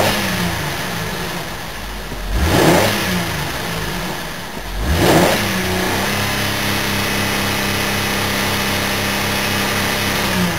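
2009 Holden Commodore's 3.6-litre V6 revved while stationary in park: three quick blips of the throttle, then held at a steady high rpm for about five seconds before dropping back near the end. Heard from inside the cabin.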